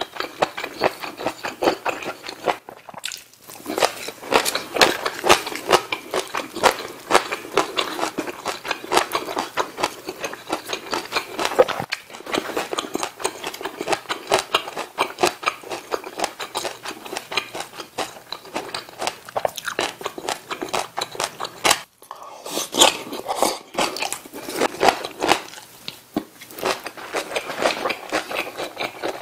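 Close-miked chewing and biting of Korean side dishes such as kimchi and seasoned spinach: wet mouth sounds with crunches, nearly unbroken, with short pauses about 3 and 22 seconds in.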